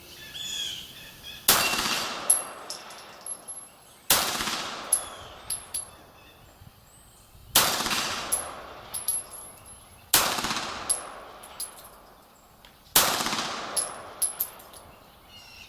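Beretta 92G Elite Compact 9 mm pistol fired five single shots, unevenly spaced a few seconds apart. Each shot is a sharp crack with a trailing echo, and a few smaller sharp ticks follow.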